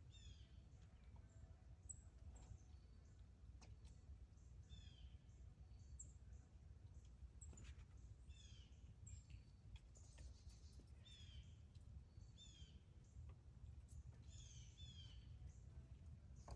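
Faint bird chirping: short phrases of quick falling chirps repeated every second or two, over a low steady rumble, with a few faint clicks.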